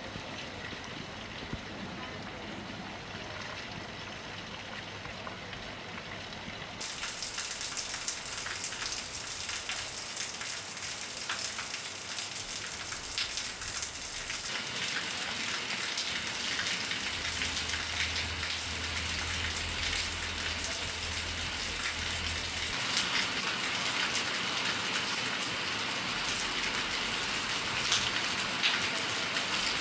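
Heavy rain falling steadily, individual drops hitting surfaces. It grows louder about seven seconds in.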